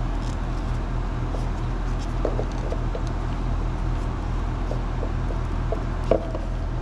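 Steady low mechanical hum, with a few light, brief clinks of small parts being handled.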